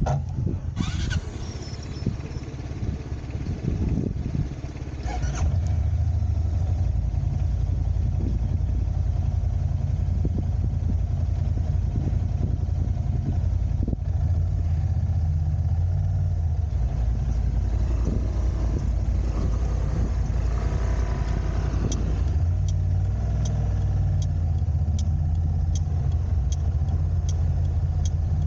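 Car driving through city streets: a steady low rumble of engine and road noise, heavier after a few seconds. In the last several seconds there is a regular light ticking, about one tick every three-quarters of a second.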